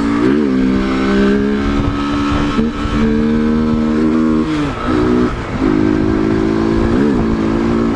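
Motorcycle engine running at a steady speed while riding. It eases off and picks up again about four and a half to five and a half seconds in.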